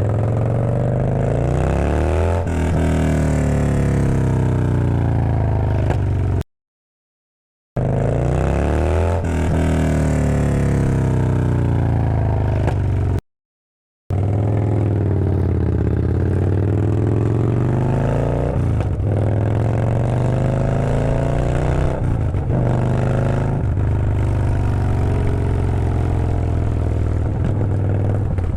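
Yamaha Bolt's 942 cc air-cooled V-twin running with no muffler, an open, unsilenced exhaust, repeatedly revving up and dropping back in pitch. The sound is broken by two brief gaps of total silence.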